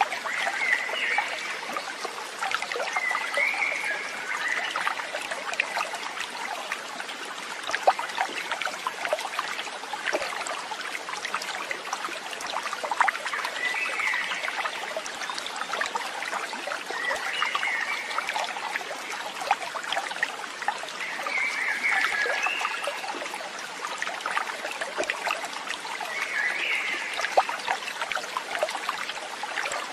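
Water trickling and babbling steadily, like a small stream, with a short chirping animal call repeating every three to four seconds.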